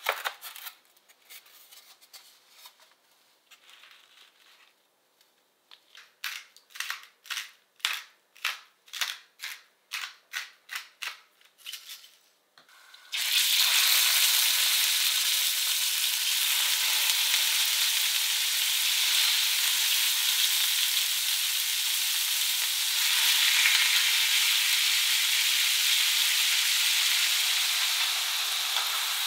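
A wooden cutting board is set down on a stone counter with a knock, then comes a run of about a dozen sharp, evenly spaced strokes, roughly two a second. About 13 seconds in, a loud, steady sizzle of food frying in hot oil takes over: meat searing in a stainless steel pan, then potato sticks frying.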